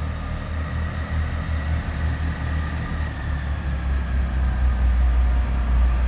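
Diesel train engine running at the station: a deep, steady rumble that builds gradually louder.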